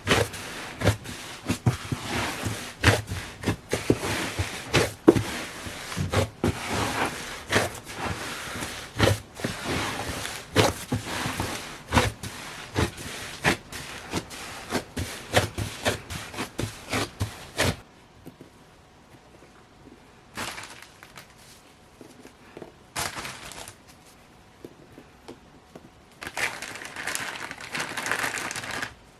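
Hands kneading and squishing a large mass of slime: a fast run of sticky clicks and pops. After about 18 seconds it drops to a few brief squishes with quiet between them.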